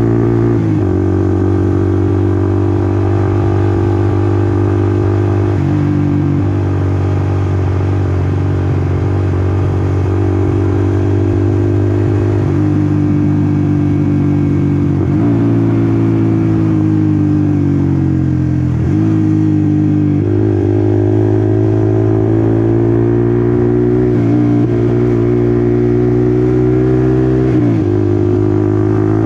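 Honda CBR150R's single-cylinder engine running on the move, its note broken by several sudden drops and climbs in pitch as the revs change.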